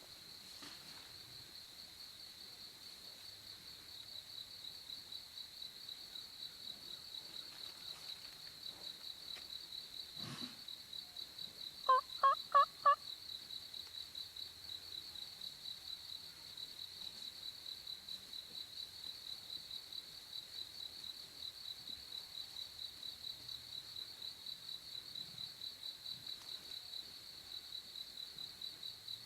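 A steady high, pulsing insect trill from crickets. About halfway through, four quick, loud turkey yelp notes cut in.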